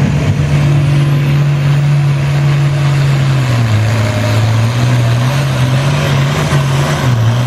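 International Harvester 966 tractor's diesel engine running hard while pulling the sled, a loud steady drone whose pitch sags about halfway through and again near the end.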